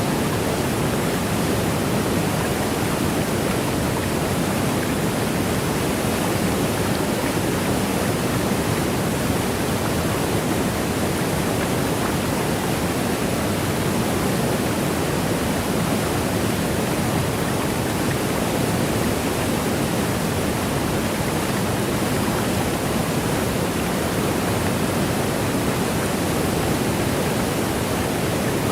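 Waterfall: a steady, unbroken rush of falling water, deepest in the low-middle range and even throughout.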